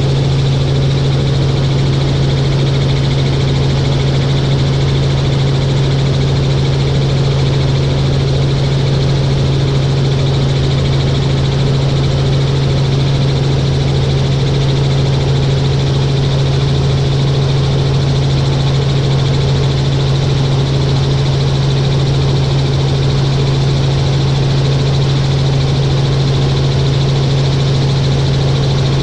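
Helicopter in flight: a loud, steady drone with a strong low hum that holds unchanged throughout.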